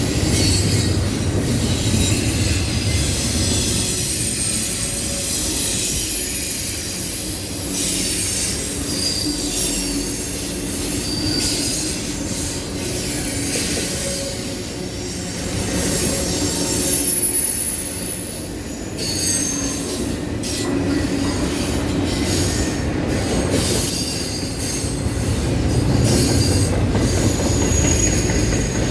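Long intermodal freight train rolling past on a curve, its wheel flanges squealing in short high-pitched bursts over a steady low rumble of the cars.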